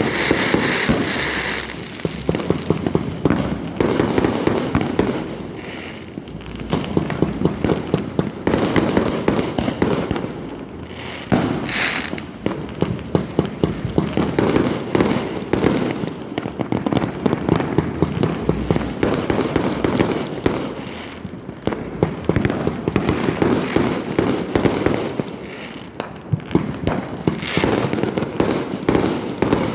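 Fireworks going off in a dense, continuous barrage: many overlapping pops, bangs and crackles with no break.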